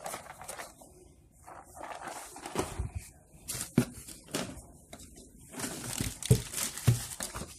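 Toy boxes being handled: irregular rustles of cardboard packaging with several light knocks.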